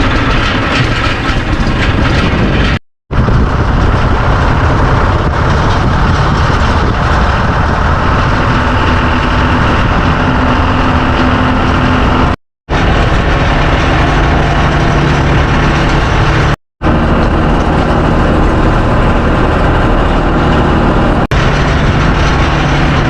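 Tractor engine running steadily, cut off abruptly three times where the clips are joined.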